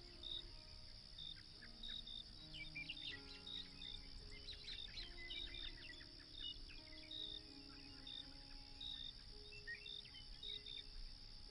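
Soft, slow music with sustained notes under a night-time nature bed: crickets chirping steadily at a regular pace, and short bird chirps and twitters scattered through, busiest in the middle.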